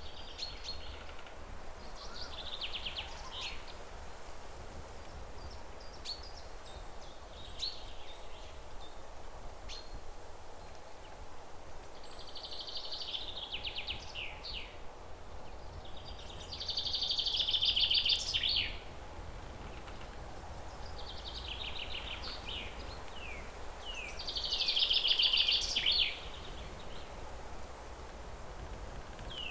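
Songbirds singing repeated fast trilled and chirping phrases. Two louder phrases of about two seconds each come past the middle and near the end, over a steady low outdoor rumble.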